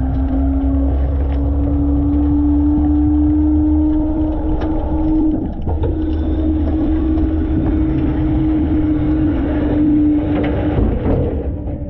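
Front-load garbage truck running, heard from inside its hopper: a low rumble under a steady whine that rises slightly over the first few seconds and drops away about ten seconds in.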